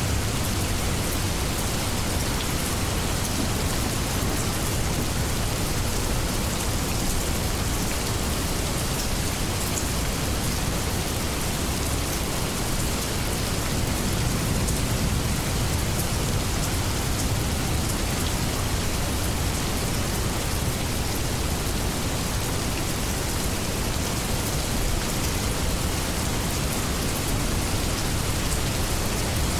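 Steady heavy rain falling, with a low rumble underneath.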